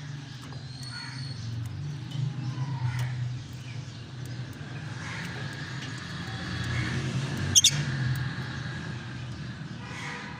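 Lovebirds giving harsh, shrill calls over a steady low hum, with one sharp, loud call about seven and a half seconds in.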